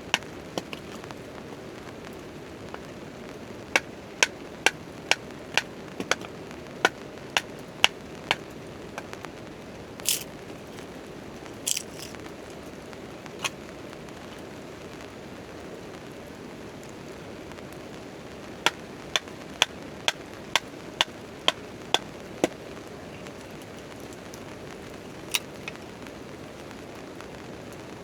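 Steady rain and campfire hiss under a tarp, with sharp ticks and pops in runs of about two a second, twice, and a few louder pops near the middle.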